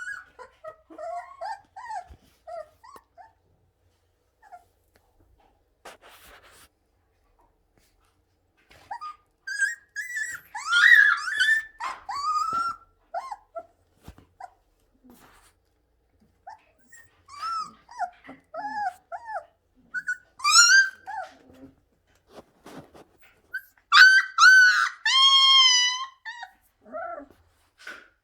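Siberian husky puppies whimpering and yipping in short, high-pitched bursts, with a quiet stretch a few seconds in and a longer drawn-out whine about 24 seconds in.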